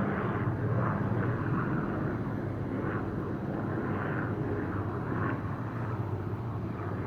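Aircraft engine overhead: a steady low droning hum over a rushing noise, getting gradually a little quieter.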